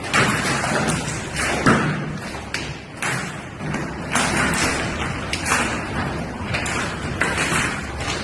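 Large hailstones pelting a hard surface: a dense, loud rattle of impacts with frequent louder knocks scattered through it.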